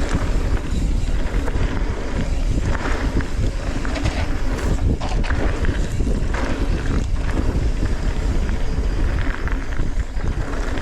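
Wind buffeting the microphone while a mountain bike rolls along a dirt trail, with tyre and frame rattle and a few sharp knocks from bumps about halfway through.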